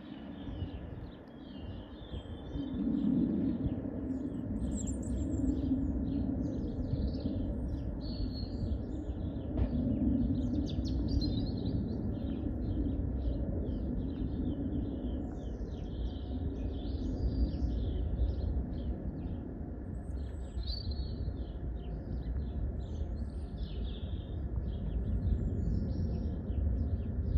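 Small birds chirping over and over, many short calls close together, over a steady low rumble of background noise.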